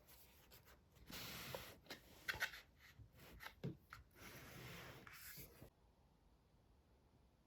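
Rustling and scraping handling sounds with a few sharp light knocks, starting about a second in and stopping abruptly a little before the end.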